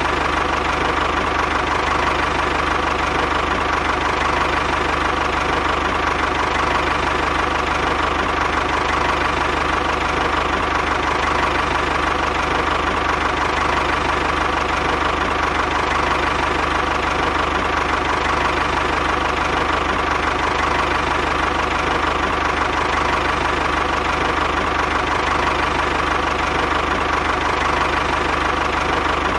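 A small motor running at a steady speed: a continuous whine over a low hum, with no change in speed.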